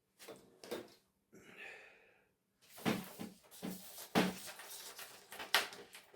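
Plastic parts of a broken flat-screen TV being handled and pulled apart by hand. A few light clicks and a brief scrape come first, then from about three seconds in a quick run of knocks and clatter.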